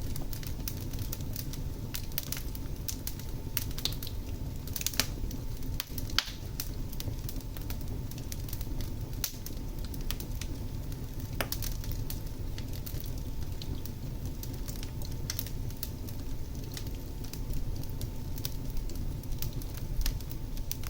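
Fire in a fireplace crackling: frequent sharp pops over a steady low rumble, with a few louder pops about five and six seconds in and near the end.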